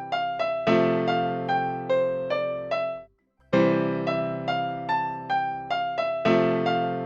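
A keyboard instrument with a piano-like tone playing a short melody of struck, fading notes over a held low chord. The phrase breaks off about three seconds in and starts again half a second later.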